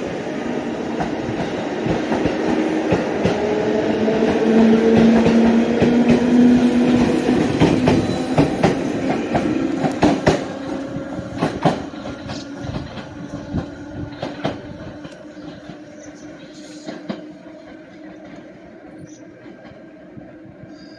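JR electric train pulling out of the station past the platform. A steady motor hum grows louder for the first several seconds, then a run of sharp wheel clacks over the rail joints follows, and the sound fades away as the train leaves.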